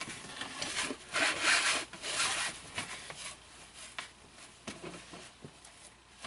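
Rustling and rubbing in uneven strokes as the werewolf animatronic's costume and parts are handled during assembly. It is loudest from about one to two and a half seconds in, with a few light knocks later.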